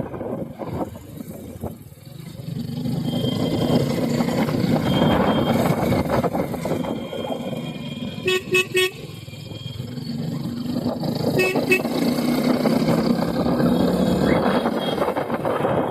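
Running vehicle engine and road noise, with a vehicle horn giving a quick run of short toots about eight seconds in and two more a few seconds later.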